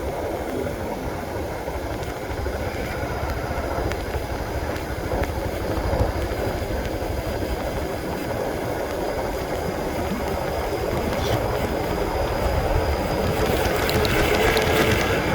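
Honda CB150R's single-cylinder engine running steadily under way, mixed with road and wind noise, growing a little louder near the end.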